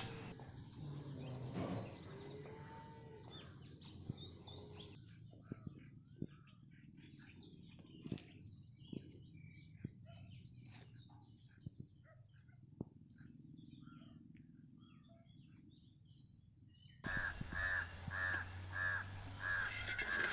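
Small birds chirping outdoors: short, high calls repeating over a faint background. About seventeen seconds in, a steadier rhythmic pulsing call takes over.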